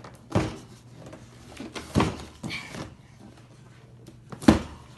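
A dog crate being handled and set down: three sharp knocks and clunks, the loudest about four and a half seconds in, with a little rattling in between.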